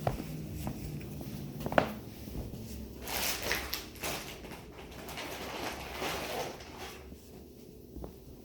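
Two sharp clicks or knocks, the second and louder one about two seconds in, followed by rustling, scraping noise that swells twice.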